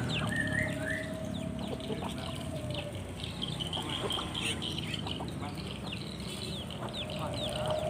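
Small birds chirping, many short quick calls one after another, over a steady low background noise; a long steady tone in the first few seconds comes back and rises near the end.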